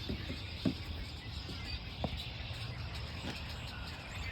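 Outdoor background with a steady low rumble and faint bird chirps, broken by a few soft knocks, the loudest about a second and two seconds in.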